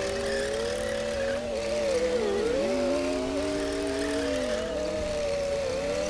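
Komatsu D60P bulldozer's diesel engine running under load while pushing soil. The engine tone rises and falls slowly, dipping once briefly about two and a half seconds in.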